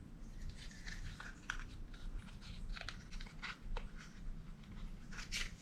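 Irregular small clicks, taps and crinkling of parts and material being handled, over a low steady hum.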